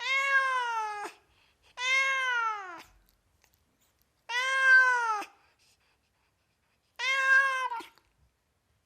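A domestic cat meowing four times, each meow about a second long, falling in pitch at its end.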